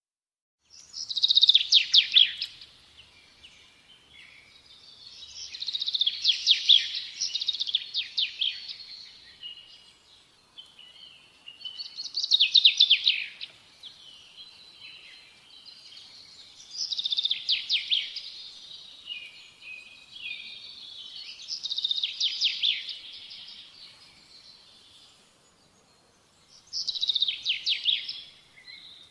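A songbird singing in repeated phrases of quick, high trilled notes, each phrase a second or two long, six of them about five seconds apart.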